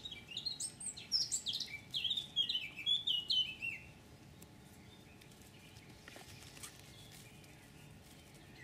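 Birds calling: a quick run of short, high, falling chirps for the first four seconds or so, then only faint outdoor background.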